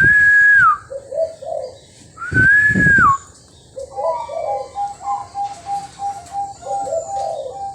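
Zebra dove (perkutut bangkok) cooing, ending in a quick even run of short staccato notes over the last few seconds. Two loud whistled notes, each level and dropping at its end, come first, at the start and about two and a half seconds in.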